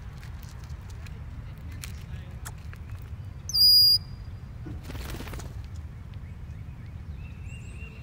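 Birds at a seed feeder: scattered light clicks, then one loud, high, steady whistled bird note about half a second long, followed by a brief whir like wingbeats, over a steady low rumble.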